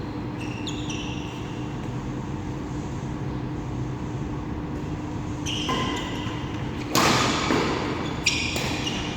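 Badminton play on a court: a steady hum at first, then from about five and a half seconds in shoes squeaking on the court floor. A loud racket hit on the shuttlecock comes about seven seconds in, and more squeaks and a lighter hit follow near the end.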